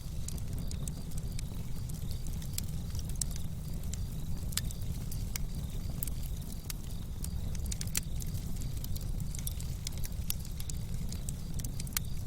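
Campfire crackling: sharp, irregular pops and snaps over a steady low rumble.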